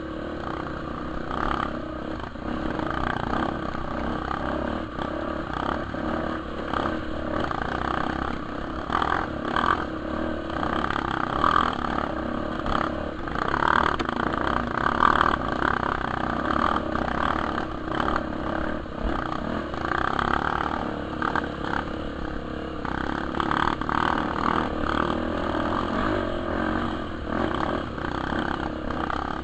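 Trail motorcycle riding over a dirt trail, its engine note rising and falling with the throttle, with rattling and scraping mixed in.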